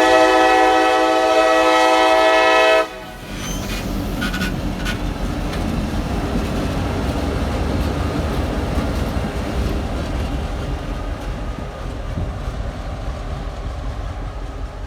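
CSX locomotive air horn sounds one long blast of about three seconds, then the train runs past with a steady low rumble and a few clicks of wheels over the rail.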